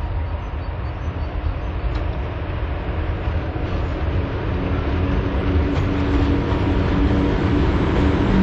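PKP Cargo ET22 six-axle electric freight locomotive approaching and drawing level, hauling a loaded train of hopper wagons. Its rumble grows steadily louder, and a steady hum comes in about halfway through.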